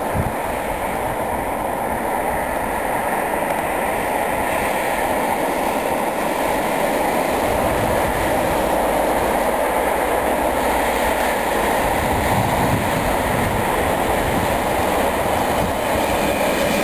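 Approaching electric freight train, a pair of VR Sr1 electric locomotives hauling tank wagons, its steady rumble slowly growing louder as it nears.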